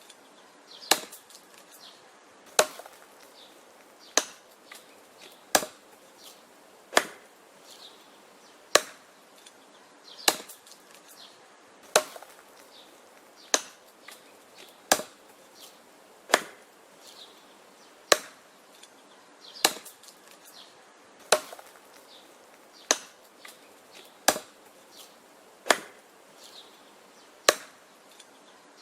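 Wood being chopped: a blade strikes wood in a steady rhythm, about one sharp blow every second and a half, with lighter knocks between the blows.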